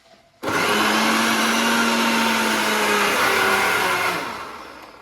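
Electric kitchen blender (mixer grinder) switched on abruptly and running at full speed with a steady hum, then winding down as it is switched off near the end.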